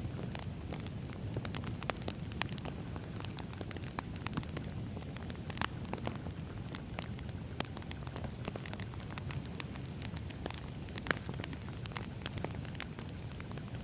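Wood fire crackling: irregular sharp pops and snaps of burning logs over a steady low rumble of the flames.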